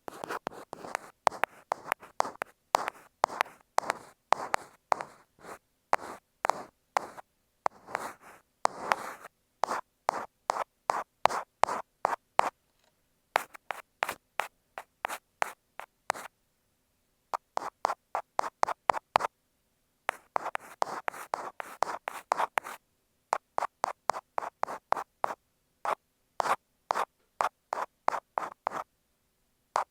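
Ear pick scratching and rasping against an earphone microphone, standing in for ear cleaning: quick strokes, about three or four a second, in runs of a few seconds with brief pauses between them.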